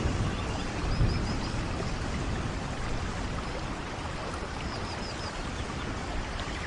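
Steady heavy rain, with a brief low rumble of thunder about a second in. Two faint runs of four quick high chirps are heard over the rain.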